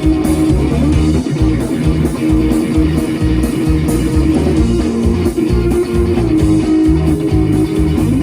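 Live blues-rock band playing an instrumental passage: electric guitar holding and bending sustained notes over bass and a steady drum beat.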